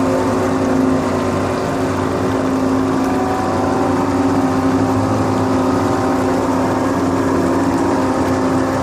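Tow boat engine running steadily under load, pulling on a line to right a capsized pontoon boat. The engine's hum holds an even pitch throughout.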